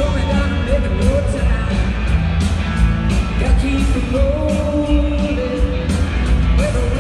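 A live band playing, with bass, drums and cymbals keeping a steady beat under a lead melody that slides and bends in pitch.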